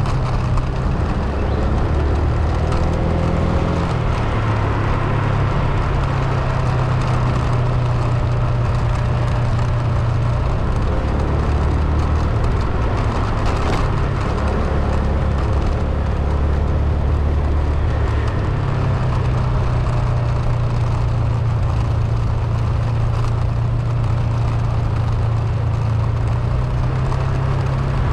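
Car driving, with a steady low rumble from the engine and road that swells and eases every few seconds.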